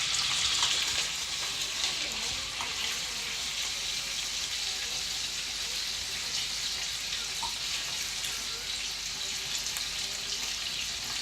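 Hot oil sizzling steadily in a frying pan, with a few faint ticks.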